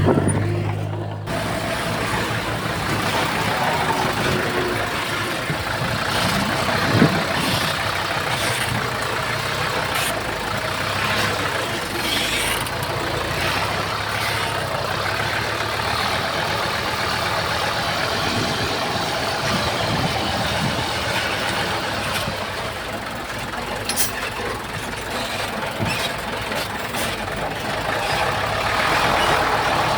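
Heavy diesel earthmoving machinery running steadily, with a few sharp clanks about a third of the way in and again near the end.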